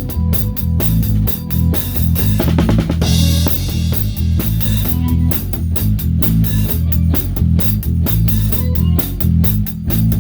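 Live rock band playing an instrumental, with a drum kit heard up close over electric bass and guitar: a steady beat on kick and towel-damped snare, with a quick drum fill about two and a half seconds in that lands on a cymbal crash.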